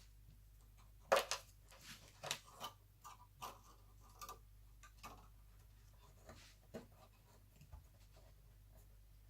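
Irregular light clicks and taps of laptop parts being handled during reassembly, the sharpest about a second in, with a cluster of them between two and three and a half seconds in.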